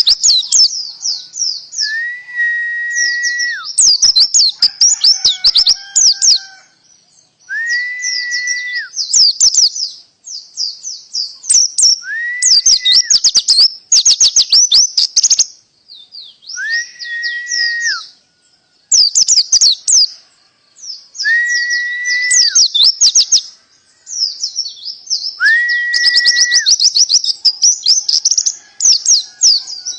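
Pleci (white-eye) songbird singing a canary-style song: long runs of rapid, high chirps and trills in phrases, broken by a level whistle held for about a second and repeated every four to five seconds.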